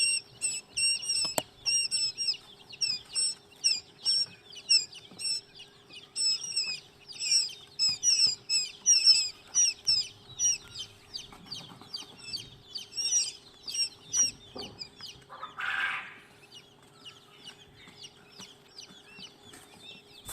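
Chicks peeping: rapid, high-pitched cheeping calls one after another, thinning out after about eleven seconds. A short scratchy noise sounds about sixteen seconds in.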